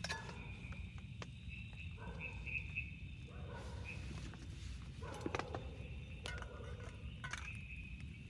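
Scattered light knocks and clicks, a few close together about five seconds in, over a steady low rumble and a faint steady high tone.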